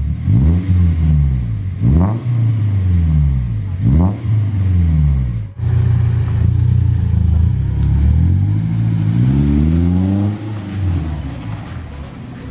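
Daihatsu Gran Max pickup's engine revved through an NDK full-system aftermarket exhaust (4-2-1 header, straight resonator, DK-03V4 muffler) with a deep bass exhaust note. Two quick sharp rev blips, then steadier running after a brief break, then a slower rev up and back down near the end.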